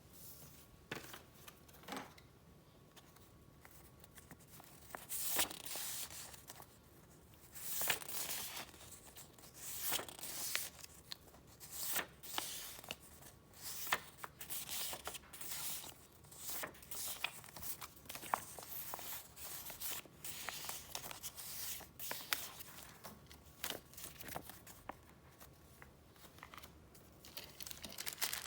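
Paper and wrapping being handled: crinkling and rustling in short irregular bursts about every one to two seconds, with quieter handling in between.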